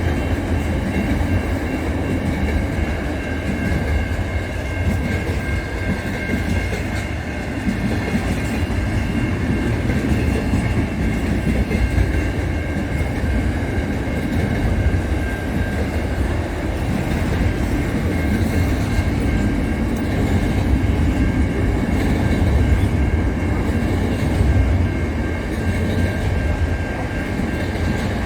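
A train running on the rails: a steady low rumble with some clickety-clack of the wheels and a faint steady high whine.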